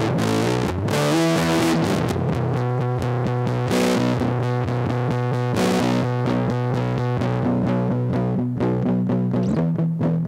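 Squier Starcaster electric guitar played through a Big Ear Pedals LOAF fuzz pedal: fuzzed, distorted chords and riffs. The playing turns choppier, with short clipped notes, near the end.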